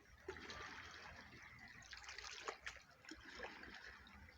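Faint sea water trickling and lapping, with a few small splashes.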